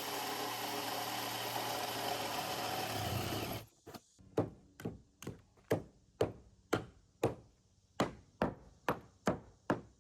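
A steady mechanical whirring for about three and a half seconds that stops abruptly, then a run of sharp striking blows at about two a second, like a hammer or axe hitting wood.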